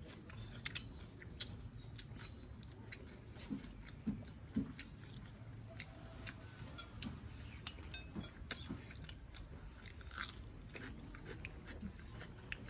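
Close-up chewing and crunching as two people eat stir-fried eel with rice and raw lettuce and cucumber, with many small, sharp clicks of spoons on plates.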